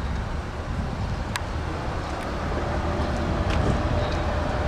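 Steady low vehicle rumble, with a single sharp click about a second and a half in.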